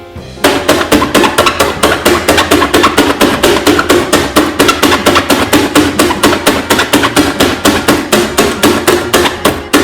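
A fast, even run of hard knocks, about six a second, starting about half a second in and keeping up to the end.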